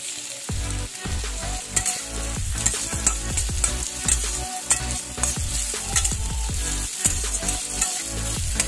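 Sliced onions and green chillies sizzling in hot oil in a metal kadai, stirred with a metal spatula that scrapes and clicks against the pan again and again.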